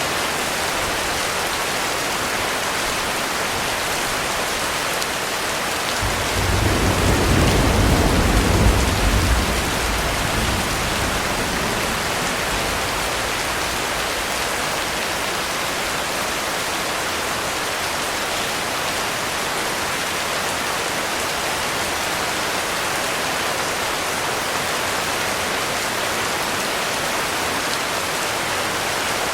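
Heavy rain falling steadily. About six seconds in, a low rumble of thunder swells for a few seconds and then fades away.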